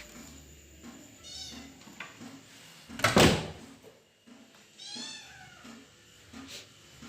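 A cat meowing twice, short calls about a second in and again about five seconds in, with a loud knock about three seconds in.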